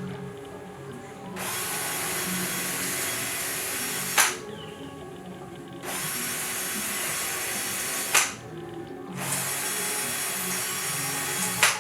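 Power drill running in repeated bursts of about two and a half seconds, each cut off sharply and followed by a short pause, as it works hole after hole in the wing's sheet-metal parts. Quiet background music plays underneath.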